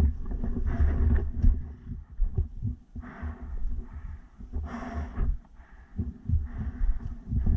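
A person breathing, with a breath every second or two, over low thudding and rubbing from movement close to the microphone.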